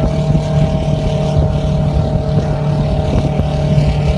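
Loud, steady drone of a jet airliner's engine still running, a held hum that does not change.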